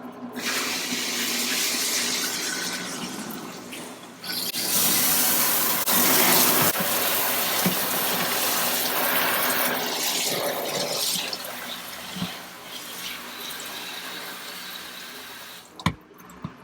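Water running and splashing into a sink, starting about half a second in, getting louder after a few seconds and easing off in the second half. It stops near the end, followed by a couple of knocks.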